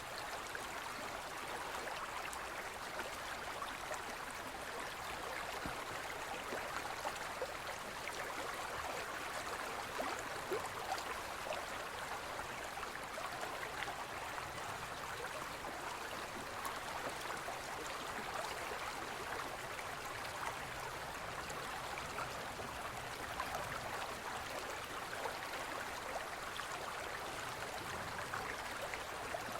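Forest stream flowing steadily, an even splashing and babbling of water over rocks.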